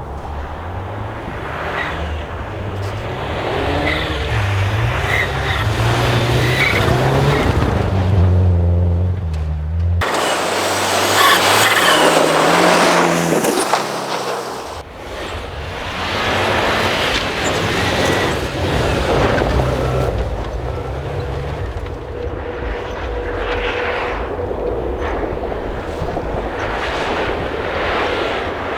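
Rally car engine revving hard and changing gear repeatedly on a snow special stage, the pitch climbing and dropping back with each shift; the sound changes abruptly about ten seconds in and again near fifteen seconds.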